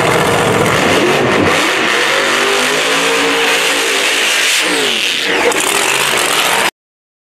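A car engine revving hard and climbing in pitch, with a sharp drop in pitch about two-thirds of the way in before it climbs again. The sound cuts off abruptly near the end.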